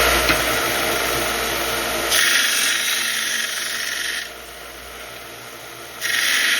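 Power grinder grinding the bevel into a 1095 carbon-steel knife blade, a steady grinding hiss. It jumps louder about two seconds in, drops quieter about four seconds in, and comes back up near the end.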